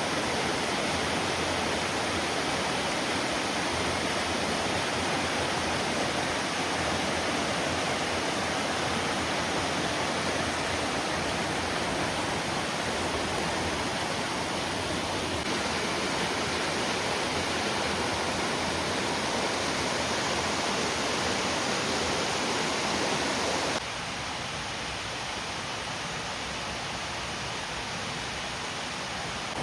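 Waterfall: a steady rush of falling water. It shifts slightly about halfway through and drops abruptly to a quieter level about 24 seconds in.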